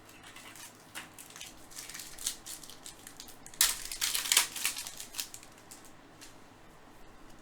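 Foil wrapper of a trading-card pack crinkling and being torn open by hand, in irregular crackles that are loudest from about three and a half to four and a half seconds in.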